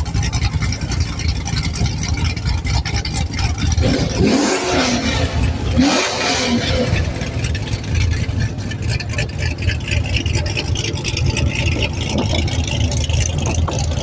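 Car engines at a meet: a steady low idling rumble, with a louder rev whose pitch rises and falls between about four and seven seconds in.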